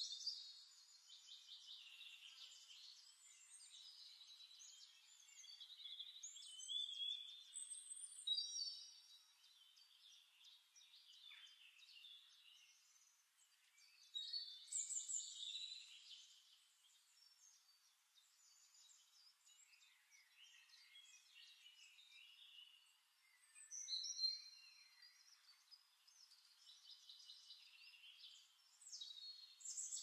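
Faint songbirds singing: high chirps and quick trills in phrases every few seconds, louder now and then.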